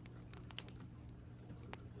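Computer keyboard typing: irregular, fairly faint key clicks over a steady low hum.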